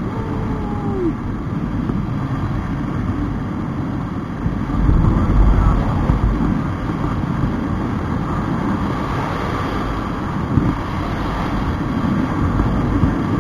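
Wind buffeting the microphone over a motorcycle running at road speed. The noise swells for a couple of seconds about five seconds in.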